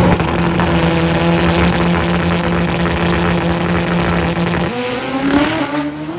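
Pro Extreme drag motorcycle engines running loud at high revs, holding a steady pitch. About four and a half seconds in, the sound changes abruptly and a quieter engine note rises in pitch.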